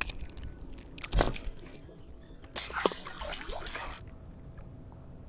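Water splashing and sloshing beside a kayak: one short, loud splash about a second in, then a longer spell of splashing and dripping from about two and a half to four seconds in.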